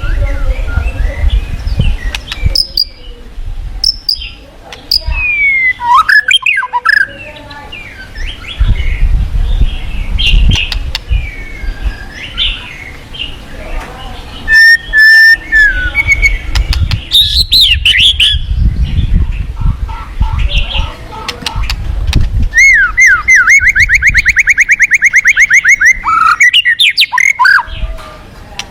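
White-rumped shama (murai batu) singing a run of varied whistled phrases and sliding notes. It ends in a rapid, even trill of about eight notes a second, over a low rushing background.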